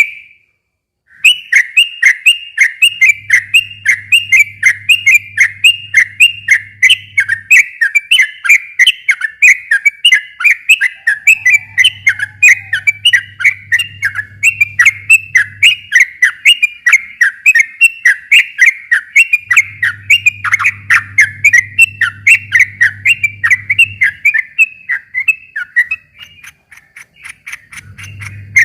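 Yellow-vented bulbul (trucukan) singing a long, rapid run of short, bright chirps, several notes a second, with one pause near the end before it starts up again. A faint low hum comes and goes underneath.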